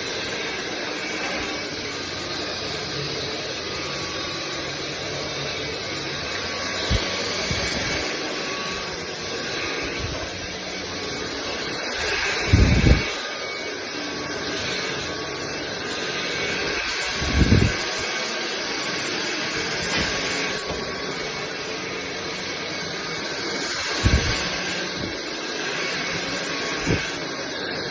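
Sulean X8 cordless stick vacuum running steadily: an even rush of suction with a faint steady whine. A few low thumps are scattered through it, the loudest two near the middle.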